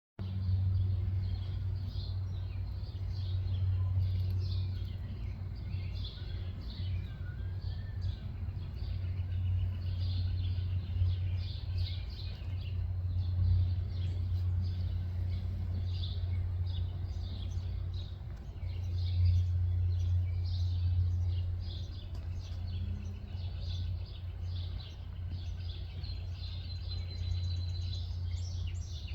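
Songbirds chirping with many short, repeated high calls and an occasional whistled glide, over a steady low rumble.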